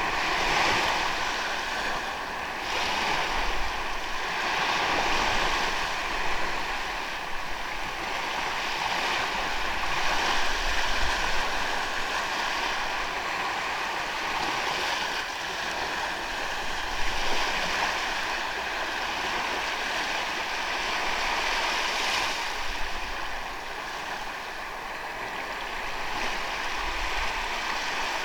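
Waves washing onto a sandy beach, the surf swelling and easing every few seconds, with some wind rumbling on the microphone.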